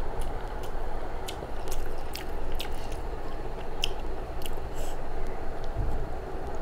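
A person chewing a mouthful of rice and vegetables eaten by hand, with many small wet mouth clicks, while fingers work the rice on the plate.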